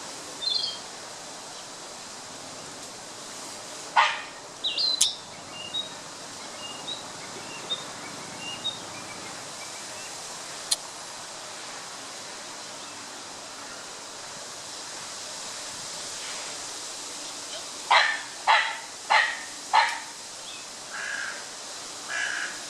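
Male Narcissus flycatcher singing in short, scattered high phrases. One loud sharp call comes about four seconds in, and four loud sharp calls follow near the end, about two-thirds of a second apart.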